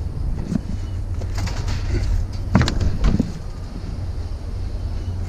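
Several knocks and clatters of scrap items being shoved and shifted into a packed load, over a steady low rumble.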